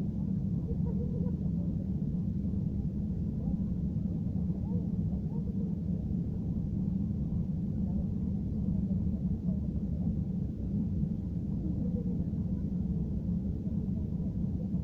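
Steady low rumble of a jet airliner's cabin in flight, the engine and airflow noise heard from a passenger seat.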